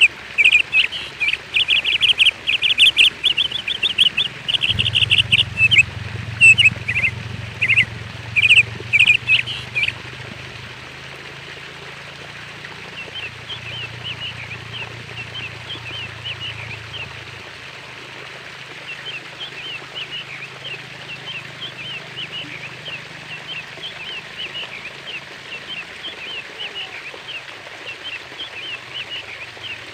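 Small birds chirping: loud, rapid chirping for the first ten seconds, then fainter, quicker chirps, over a steady hiss. A low hum runs underneath for a stretch in the middle.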